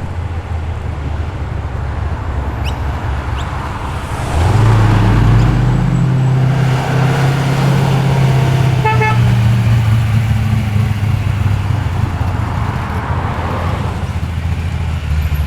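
Car engine rumbling as the car rolls in; it gets louder about four seconds in and holds a steady low note before easing off. A brief horn toot comes about nine seconds in.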